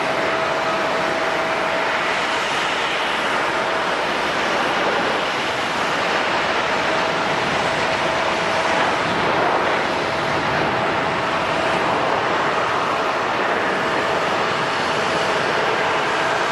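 Jet airliner engines running at an airport: a steady rushing noise with a thin, steady whine over it.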